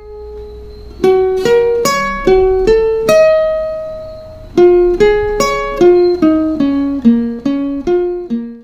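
Background music: a solo plucked-string melody, single notes picked one after another, each ringing and fading, with one longer held note in the middle. It cuts off abruptly at the end.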